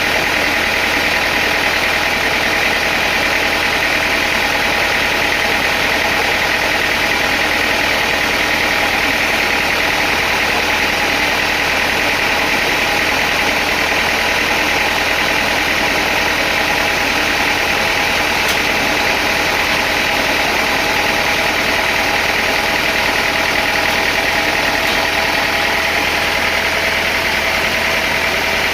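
Sawmill machinery running with a steady mechanical drone that holds an even level throughout.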